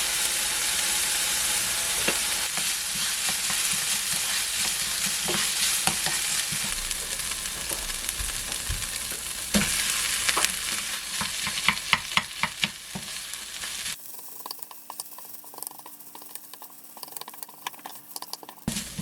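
Food sizzling in a frying pan as it is stirred, with a utensil clicking against the pan several times. About 14 seconds in, the sizzle cuts off abruptly, leaving a quieter background with a few light clinks.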